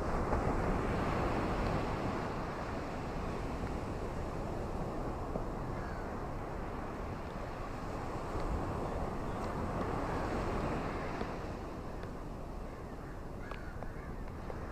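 Ocean waves washing onto a tropical beach as a steady rushing surf. It swells at the start and again about eight seconds in.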